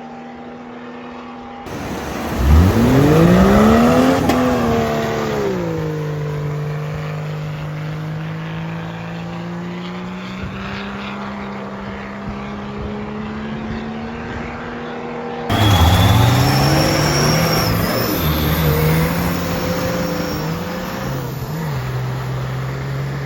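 Mud drag 4x4 engines at full throttle. One revs up sharply about two seconds in, drops back and holds a steady drone. Past the middle another engine cuts in suddenly, its pitch stepping up and down as it runs.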